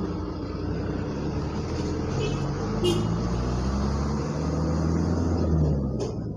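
A motor vehicle's engine passing by, its low hum growing louder and then dropping away near the end, with a brief high chirp about three seconds in.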